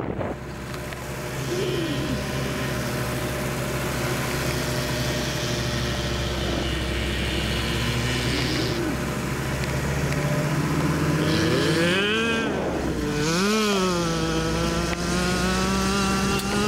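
A car engine running under way. In the second half it revs up, the pitch dipping and climbing again twice, then rising steadily as the car accelerates.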